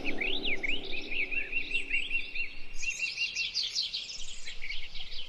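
Several songbirds singing and calling, with quick runs of short, repeated chirping notes.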